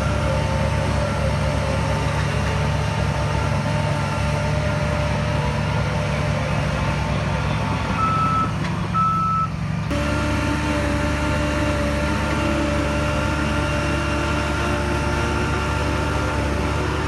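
Heavy diesel earthmoving machinery running steadily, with a reversing alarm beeping twice about eight to nine seconds in.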